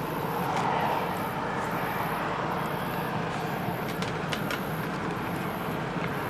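Steady low engine rumble, with a high-pitched pulse repeating about once a second throughout.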